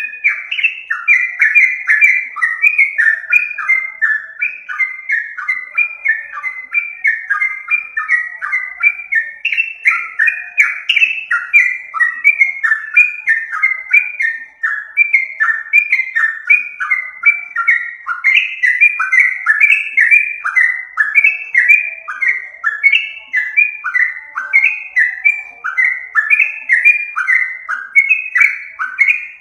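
Yellow-vented bulbul (trucukan) song played as a bird-lure recording: an unbroken run of short, pitched chattering notes, about three a second.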